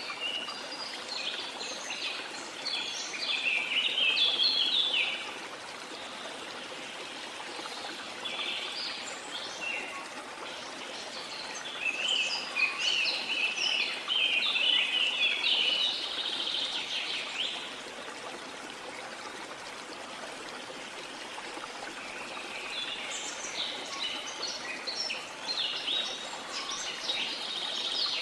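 Songbirds chirping and singing in three busy bouts with short lulls between, over the steady rush of a waterfall.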